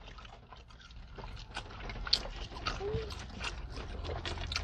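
Close-up eating sounds from a mukbang: chewing and wet lip smacks on burgers and fries, as many small scattered clicks, with a brief hummed "mm" about three seconds in.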